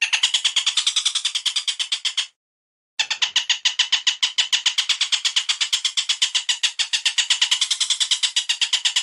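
Bird call recording played on a loop: a rapid, even chatter of sharp high notes, about nine a second, that cuts out for about half a second a little over two seconds in and then resumes.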